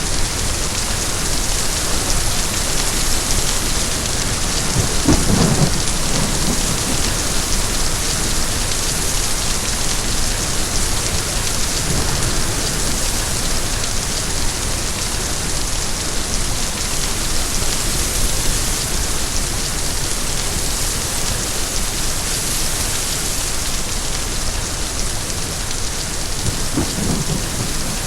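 Steady heavy rain hissing, with short low rumbles of thunder about five seconds in and again near the end.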